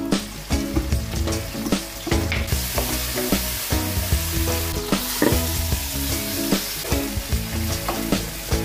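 Food sizzling in hot oil in a pan while it is stirred, with frequent knocks and scrapes of a utensil against the pan; the sizzle is loudest a little after halfway.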